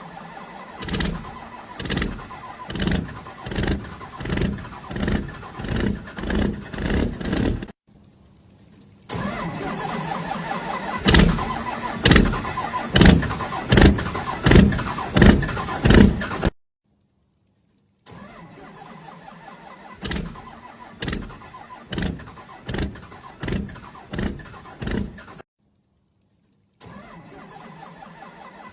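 Motorbike engine making a slow, rhythmic pulsing sound, about two beats a second, heard in three short clips cut one after another, with brief silent gaps between them.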